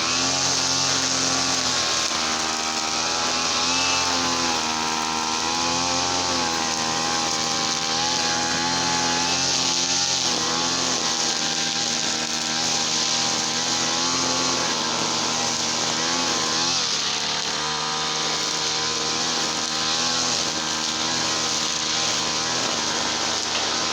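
Small two-stroke petrol engine of a brush cutter running, its speed rising and falling unevenly, with a brief dip in speed about seventeen seconds in.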